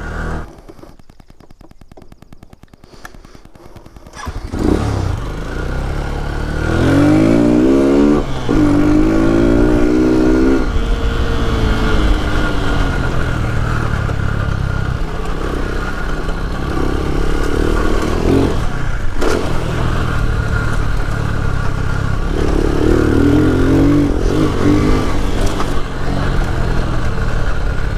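Lifan KP motorcycle engine ticking over quietly, then pulling away about four seconds in, its pitch rising in steps as it revs up through the gears, then running steadily at speed.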